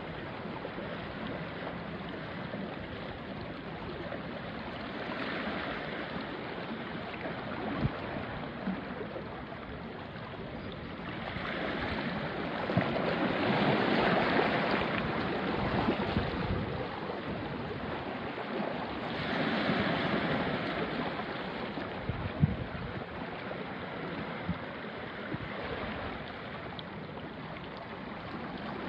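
Small waves of the Irish Sea washing onto a rocky shore, rising and falling in slow surges a few seconds long, with a few brief sharp clicks among them.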